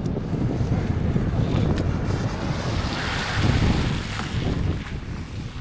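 Wind buffeting the microphone: a steady low rumble with a gust of rushing hiss swelling through the middle.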